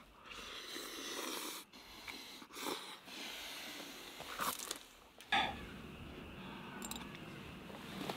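A person chewing a wrapped bite of pork belly close to the microphone: soft, uneven crunching with a few small clicks, the sharpest about five seconds in.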